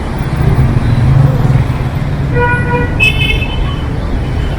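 Street traffic with engines running, and a vehicle horn sounding about two and a half seconds in for roughly half a second, followed by a short higher-pitched toot.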